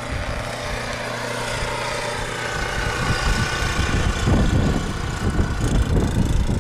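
An engine running steadily, with irregular low rumbling that grows heavier in the second half.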